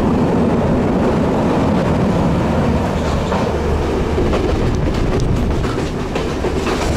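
Passenger train running at speed, heard from an open carriage doorway: a steady rumble with the clatter of wheels over the rail joints.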